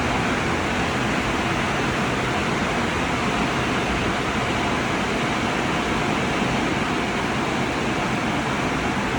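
Tunnel car wash dryer blowers running, a steady loud rush of air with a faint steady whine.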